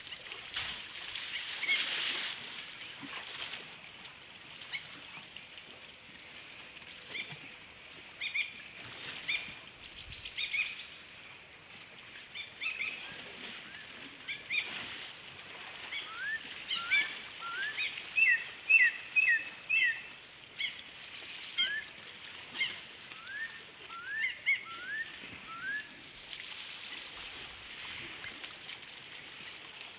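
Birds calling over and over in short chirps and quick rising whistled notes, busiest in the second half, over a steady high hiss.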